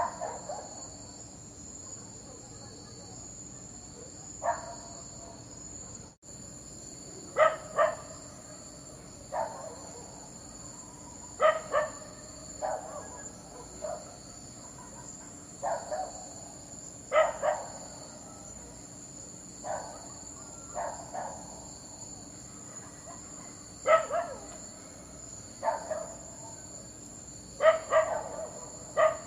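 A dog barking in short single and double barks at irregular intervals, about every two seconds. Steady cricket chirring runs behind it.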